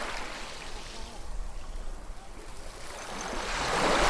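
Ocean waves washing ashore: the rush of surf eases after one wave near the start, then swells again toward the end as the next wave comes in.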